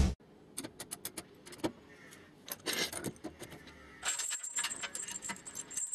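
Scattered light metallic clicks and clinks, like small metal tools being handled. A faint high hiss joins about four seconds in.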